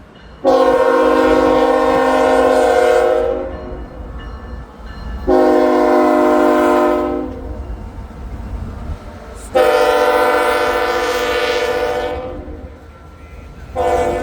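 Diesel freight locomotive's multi-chime air horn blowing for a grade crossing: three long blasts, then a fourth starting near the end, over the low rumble of the approaching train.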